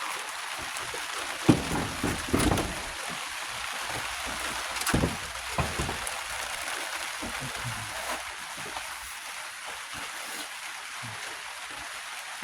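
Steady hiss of rain, with a few scattered knocks and clunks; the sharpest comes about a second and a half in, and others follow around two and five seconds in.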